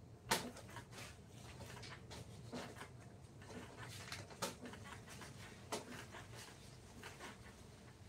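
Scattered light knocks and clicks at irregular spacing over a low steady hum, the sharpest a little after the start.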